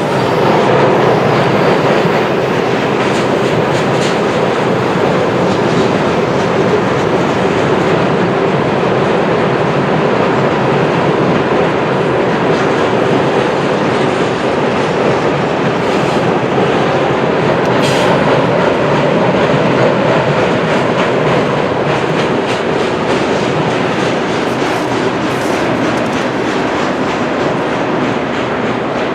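Freight train cars rolling past: a steady, loud rumble of steel wheels on rail, with a few sharp clicks from the wheels and rail joints.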